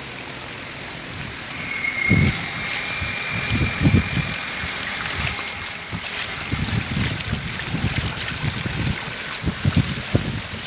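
Storm floodwater rushing and splashing in a steady wash. Gusts of wind buffet the microphone in uneven low thumps from about two seconds in.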